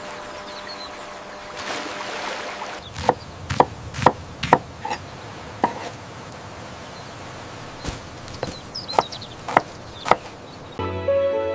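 A run of about a dozen sharp, irregularly spaced knocks like wood being chopped or struck, over a faint steady outdoor hiss. Music comes in near the end.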